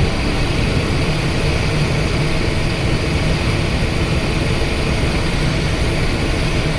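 Steady, even noise of a Cessna Citation XLS business jet heard from inside the cockpit, with no change in level.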